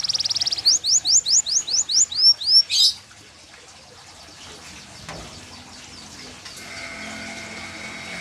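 Canary singing: a fast trill, then a string of loud, quick sweeping whistles and a few arched notes, breaking off about three seconds in. After a quieter gap, a faint steady hum comes in near the end.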